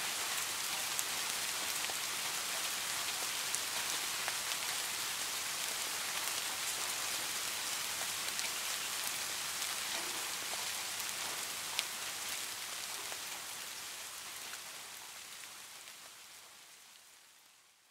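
Steady rain: a dense, even hiss with occasional sharp single-drop ticks. It fades out slowly over the last few seconds.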